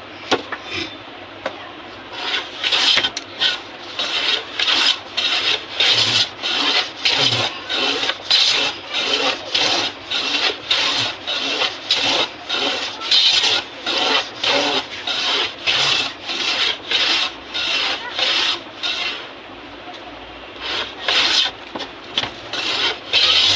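Wooden harmonium key being rubbed down by hand with an abrasive, in steady back-and-forth strokes about two a second, with a short pause near the end before the strokes resume. The key is being levelled so it sits flat and seals without air leaking.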